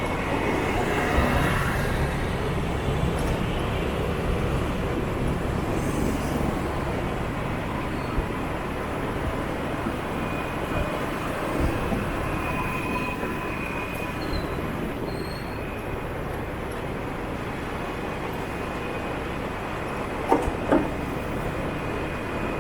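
Scooter riding through city traffic: a steady rumble of engine and road noise with other motorbikes around it, and a few sharp clicks about twenty seconds in.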